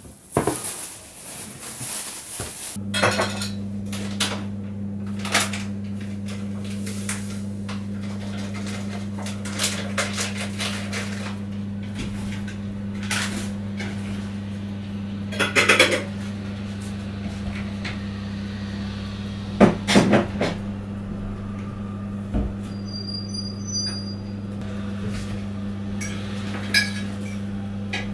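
Dishes and cutlery clinking and clattering in a kitchen, with cupboards or drawers being handled, over a steady low hum from an appliance that switches on about three seconds in. A few short high beeps sound about two thirds of the way through.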